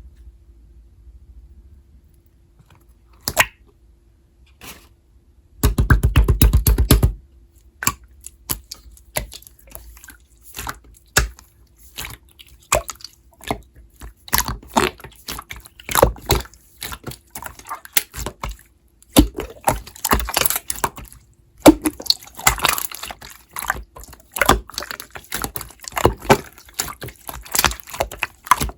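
Thick, chewy slime being squished, pressed and pulled by hand, making irregular sticky clicks and crackly pops that grow busier as it goes on. About six seconds in there is a loud, low muffled noise lasting over a second.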